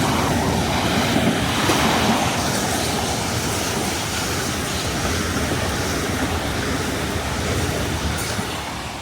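Southeastern electric multiple-unit train running along the platform at a station, its noise beginning to die away near the end.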